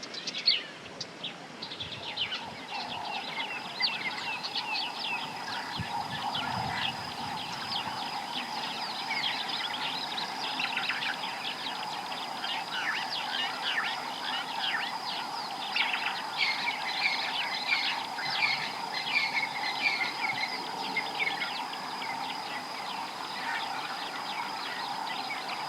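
A chorus of small birds chirping and twittering in quick overlapping notes, over a steady high-pitched insect whine and a lower continuous drone.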